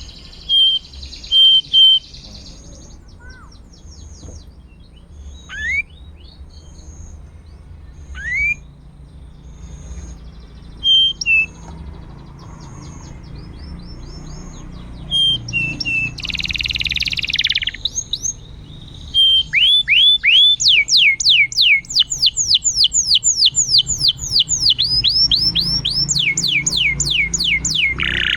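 Domestic canary singing: scattered short chirps and rising whistles, a brief rasping note a little past the middle, then from about two-thirds in a fast trill of repeated downward-sweeping notes, roughly four or five a second.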